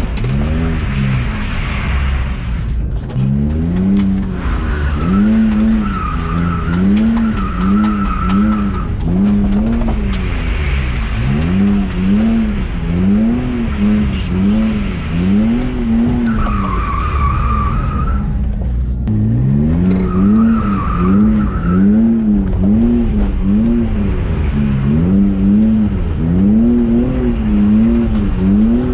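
BMW E46 drift car's engine revving up and falling back over and over, about once a second, with its tyres squealing in several stretches as the car slides.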